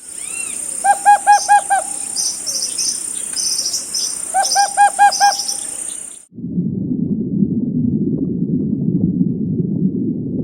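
Bird calls: two quick runs of five repeated hooting notes, with short high chirps and a steady high whine behind them. About six seconds in, this cuts off suddenly and a low, even rumbling noise takes over.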